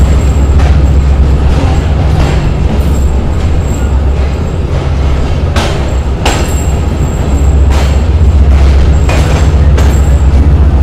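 Express passenger train coach rolling slowly along the platform: a loud, steady low rumble with sharp wheel clacks over rail joints at irregular intervals.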